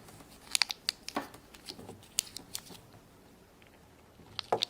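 Small plastic toy parts and packaging being handled: scattered light clicks and taps, going quiet for about a second before a few more clicks near the end.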